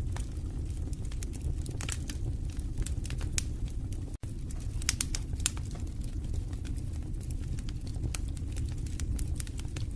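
Wood fire burning in a fireplace: a steady low sound of flames with frequent, irregular sharp crackles and pops from the burning logs. A split-second gap in the sound about four seconds in.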